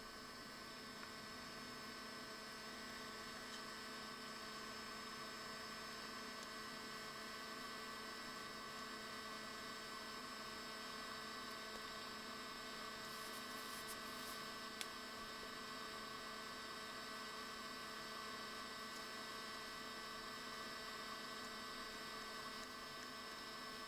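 Steady electrical hum and hiss, a set of unchanging tones with no rhythm. A few faint clicks come a little past halfway, with one sharp tick about fifteen seconds in.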